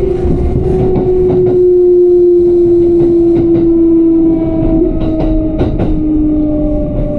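Electric train running, its traction motor whine sliding slowly down in pitch as the train slows, with scattered clicks from the wheels and rails.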